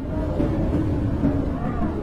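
Blizzard wind howling: a steady low rush with whistling tones that rise and fall in pitch.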